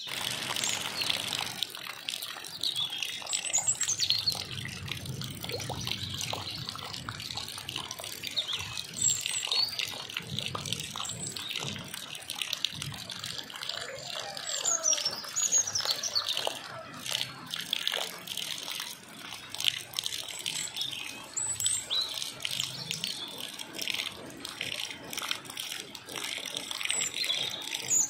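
Steady rain falling, a continuous hiss full of small drip and splash clicks. Short, high bird chirps and sliding whistles come and go every few seconds over it.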